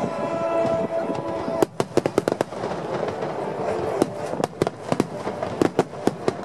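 Fireworks going off in a rapid, irregular series of sharp cracks beginning about a second and a half in, with music playing under them; held musical notes fill the opening moment.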